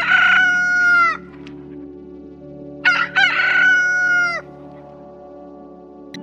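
Rooster crowing twice, each crow about a second and a half long and dropping in pitch at the end, over a steady low hum.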